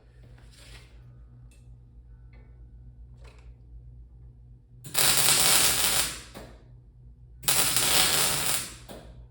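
Two short bursts of arc welding, each about a second long, tacking a stainless-steel spoon and a cast fire poker together; the crackle differs with the alloys being joined. A steady low hum runs underneath, with a few faint clicks before the welds.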